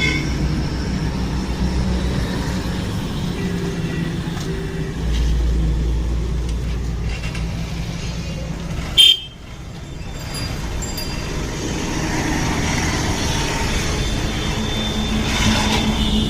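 Road traffic with a steady engine running and vehicle horns tooting, and one sharp loud knock about nine seconds in.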